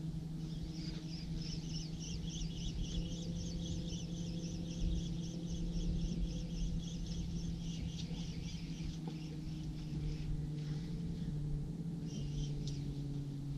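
A bird calling in a fast run of repeated high chirps, about four a second, for most of the first nine seconds and again briefly near the end, over a steady low hum.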